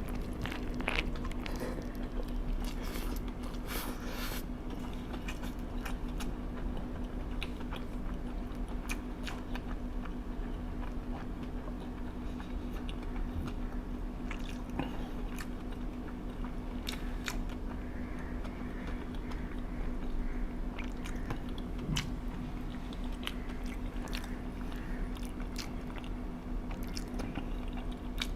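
A person chewing and biting food close to the microphone, with irregular crunches and clicks of the mouth. A steady low hum runs underneath.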